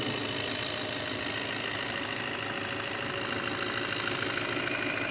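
VW Passat 2.0 TDI's four-cylinder turbodiesel idling steadily, heard with the bonnet open. It runs smoothly and evenly.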